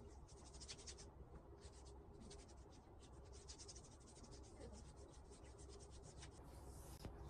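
Faint scratching strokes of a pen or pencil writing on paper, coming in short runs of quick strokes with brief pauses between.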